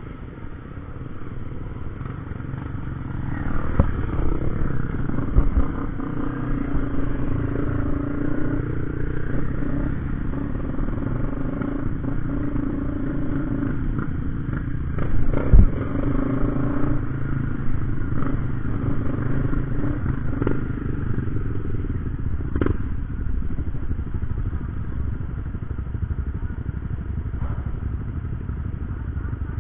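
Motorcycle engine running steadily under way, with a few knocks and clatter, the loudest about halfway through.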